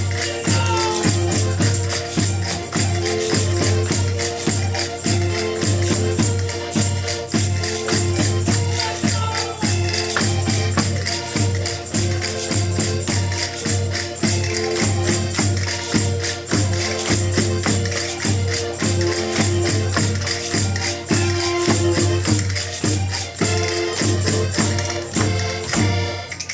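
Portuguese folk group playing and singing: a steady, driving beat with rattling percussion, a pulsing bass drum and sustained melody tones.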